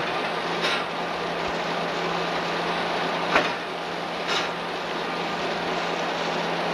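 A vehicle's steady running noise with a constant low hum, broken by three short sharp knocks.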